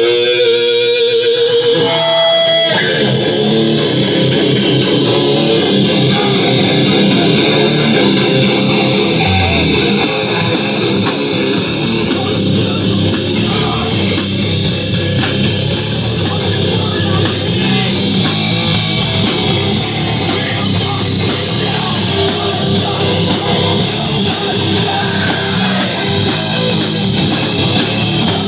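Live heavy rock band playing loud distorted electric guitar over bass and drums. A held, wavering guitar note opens it, and the full band comes in about three seconds in.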